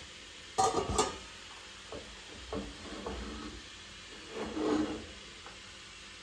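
Kitchen utensils and dishes knocking and clinking, with stirring or scraping in a bowl: a quick cluster of knocks about a second in, a few lighter taps, then a longer scrape near the end.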